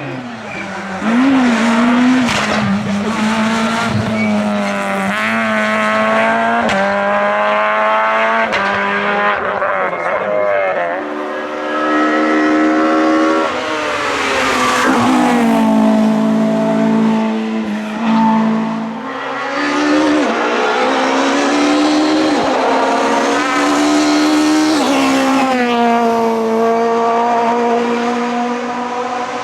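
Group F2000 rally car engines, naturally aspirated, revving hard at full attack. The pitch climbs through the gears and drops back under braking several times over, with tyre squeal.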